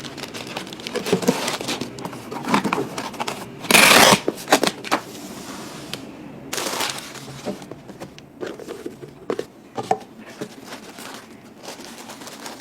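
Irregular crinkling and rustling with scattered clicks, like material being handled, and two short, louder rushes of noise about four and six and a half seconds in.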